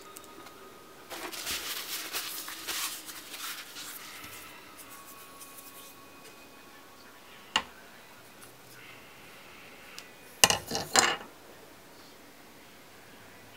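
Small hard parts and tools being handled on a workbench: a few seconds of scraping and rustling, a single sharp click, then a short clatter of light knocks.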